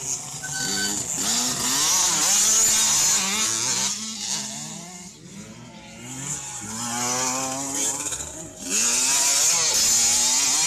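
Small two-stroke motocross bikes of the 65 cc/85 cc youth classes racing past, engines revving hard with the pitch repeatedly climbing and dropping through gear changes. It is loud for the first few seconds, dips in the middle, then swells to its loudest for the last two seconds.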